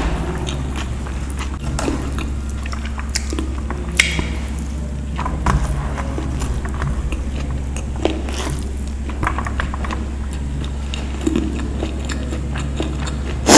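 Close-miked chewing of a mouthful of vegetable pulao rice eaten by hand, with wet mouth sounds and small clicks, and fingers gathering rice on a steel plate. A steady low hum runs underneath.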